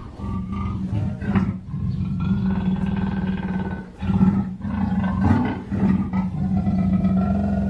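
Black panther (melanistic leopard) growling in a long, continuous low rumble with a steady pitch. It dips briefly about two and four seconds in.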